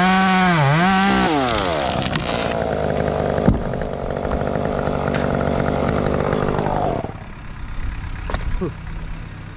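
Chainsaw at full throttle, its pitch dipping briefly as it bogs in the cut, then released about a second in and winding down. A single sharp knock about three and a half seconds in while steady mechanical noise carries on, which drops to a quieter low hum at about seven seconds.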